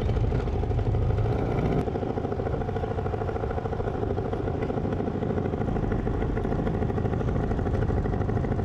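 Motorcycle engine running steadily with an even, rhythmic pulse, with a brief click about two seconds in.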